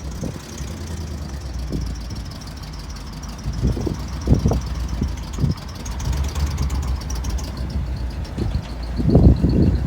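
1971 International truck engine idling steadily, with a few louder low thumps about four seconds in and again near the end.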